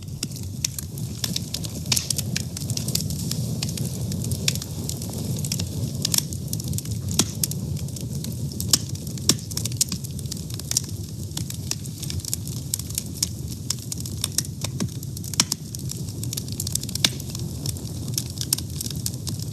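A wood fire burning, with a steady low rumble of flame and frequent sharp, irregular crackles and pops.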